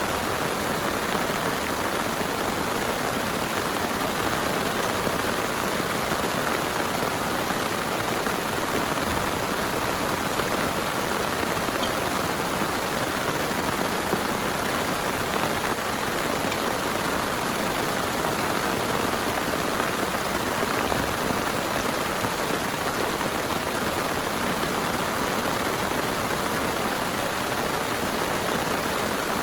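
Heavy rain pouring steadily, a dense unbroken patter.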